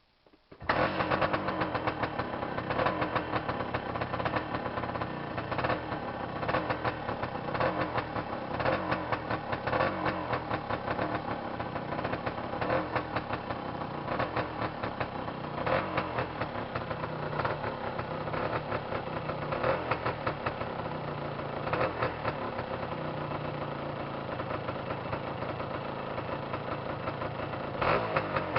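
Yamaha DT400C's two-stroke single-cylinder engine catching about half a second in on its first start after a top-end rebuild with a new piston, then running with frequent brief rises in level.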